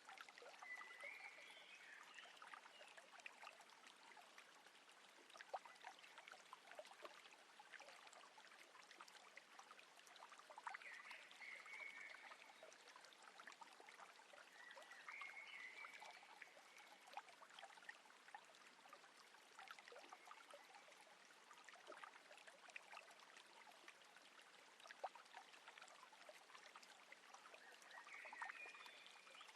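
Faint water lapping and trickling against a boat's hull, a steady wash with many small drips and splashes, while a short chirping call sounds four times.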